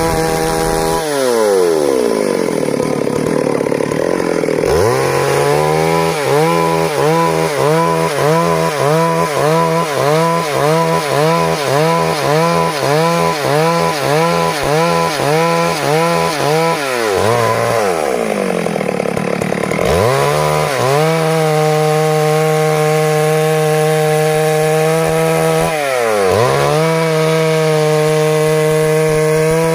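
Stihl MS 382 two-stroke chainsaw running at high revs while cutting wood. Through the middle stretch the engine pitch wavers rapidly, about one and a half times a second, as the load comes and goes. Twice the pitch sags deeply and climbs back, and once more briefly near the end, before holding high and steady.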